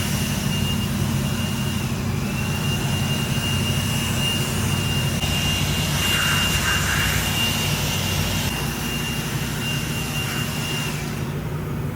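Modified car's engine running at low speed with its exhaust drone, and a steady high whine over it that stops about a second before the end.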